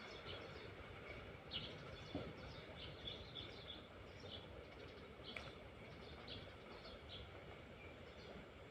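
Small birds chirping in short, scattered calls over faint steady outdoor background noise, with a couple of soft knocks.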